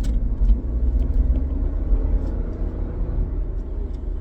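Ford SUV driving on the road, heard from inside the cabin: a steady low rumble of engine and tyres, with the engine note climbing a little as it pulls away from a light.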